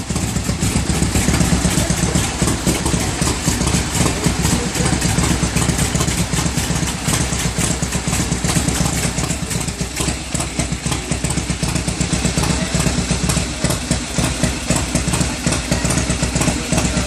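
Motorcycle engine running at idle, a steady rapid beat of exhaust pulses.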